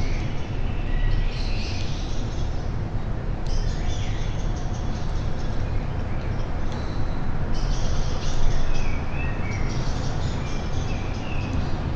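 Songbirds singing and twittering in short high phrases, some calls gliding down, over a steady low rumble.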